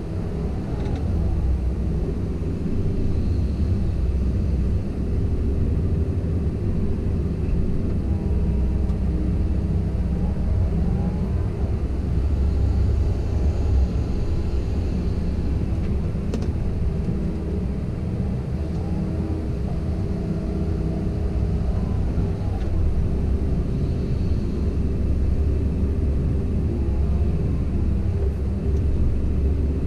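Komatsu PC170LC-10 excavator's diesel engine running steadily under working load, its pitch rising and falling a little as the machine works. A single sharp click sounds about halfway through.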